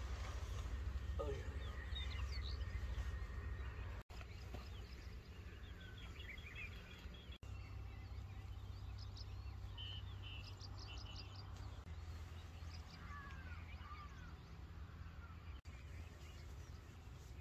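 Several wild birds calling and chirping in the morning, short chirps and a fast trill, over a low steady rumble. The sound cuts out for an instant three times.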